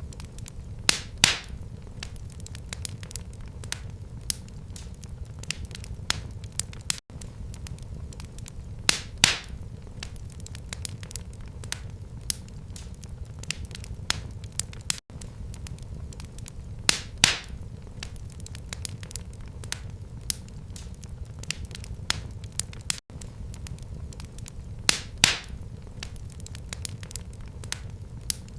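Wood fire burning in a fireplace: a steady low rumble of flames under constant small crackles, with a louder pair of pops about every eight seconds.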